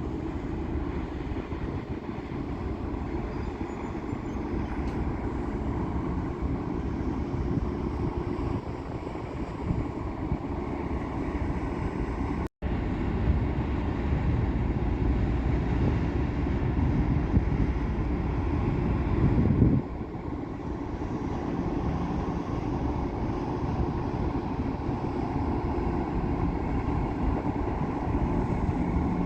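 Steady low rumble of a large ship and its escorting tugboats passing on the water, broken by a momentary drop to silence about twelve seconds in.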